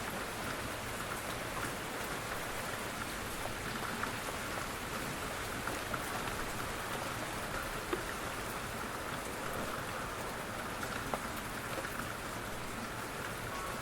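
Steady rain falling, with a few sharper drop taps standing out here and there.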